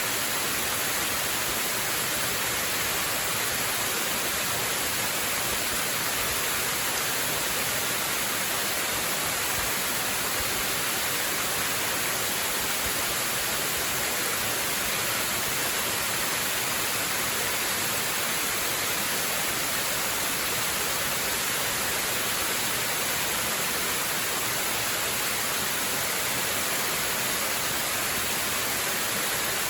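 Steady rushing of a waterfall: an even, unbroken hiss, heaviest in the upper range.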